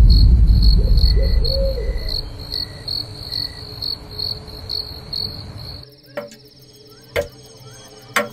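Night ambience of crickets chirping two or three times a second, under a loud low rumble that fades away over the first two seconds. About six seconds in it changes to a quieter room with a clock ticking about once a second.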